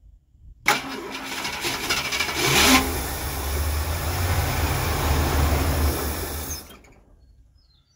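1968 Ford Galaxie's 390 V8 cranked by a remote starter switch, catching on chainsaw gas poured into the carburetor and running for about six seconds before it stops. It is not yet drawing fuel from the tank.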